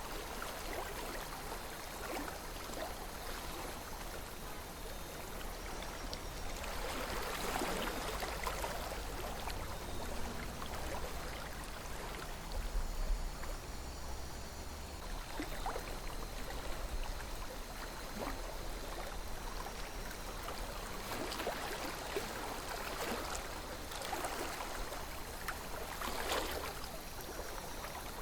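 Calm river flowing: a steady rush of water over a low rumble, swelling louder now and then.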